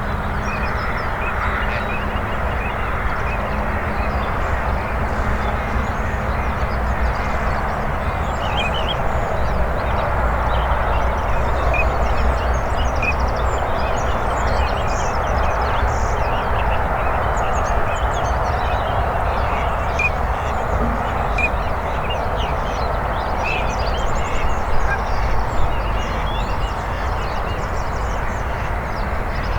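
A steady, dense chorus of waterfowl calling, with ducks and geese among them. Small birds chirp briefly over the top, above a low rumble.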